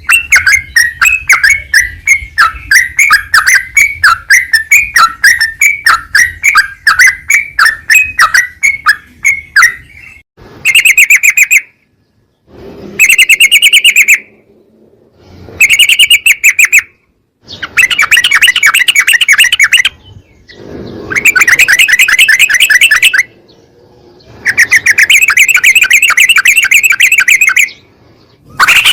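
Yellow-vented bulbul (trucukan) song: first a fast run of short chirps, then a series of rapid, stuttering trilled phrases one to three seconds long that start and stop abruptly between short silences.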